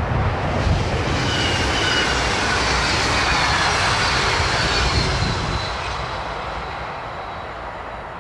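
Double-deck electric passenger train passing at speed and moving away: a rush of wheels on rail with a faint high whine. It fades after about five seconds as the train recedes.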